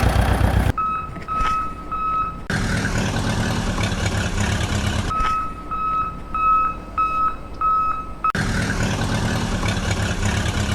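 A vehicle engine running, broken twice by a reversing alarm beeping at one steady pitch about twice a second, three beeps and then five. Each section starts and stops abruptly, like edited sound effects.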